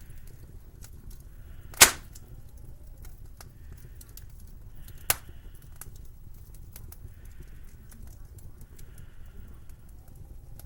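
Two sharp cracks about three seconds apart, the first much louder, among scattered faint ticks over a steady low rumble: a wood fire crackling and popping.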